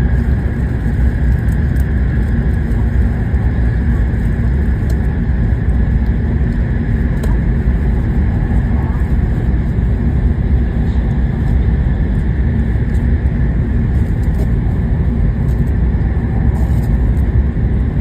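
Steady cabin noise of a Hokuriku Shinkansen train running: a constant low rumble of wheels, track and air that does not change.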